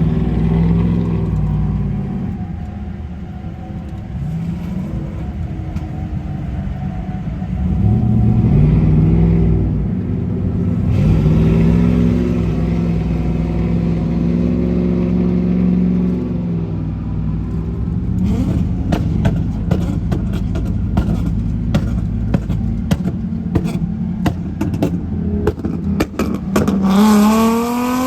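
Vehicle engines revving again and again, the pitch climbing and falling. In the second half comes a rapid stream of sharp pops, and near the end one rev climbs steeply.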